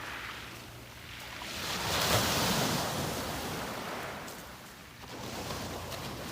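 Sea waves breaking on a beach and washing back, one wave swelling to a peak about two seconds in and another, smaller one rising near the end.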